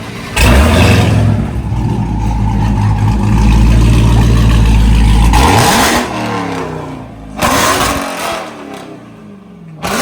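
2023 Dodge Charger Hellcat's supercharged 6.2-litre Hemi V8, running through an exhaust with the mid mufflers deleted, is revved from idle. It rises sharply, holds high revs for about five seconds, and falls back to idle. A shorter blip follows about two seconds later.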